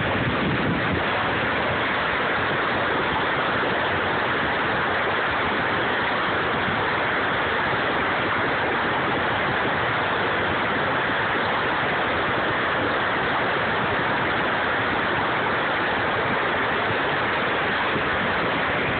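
The Middle Fork of the Popo Agie River in flood: a steady, unbroken rush of fast whitewater.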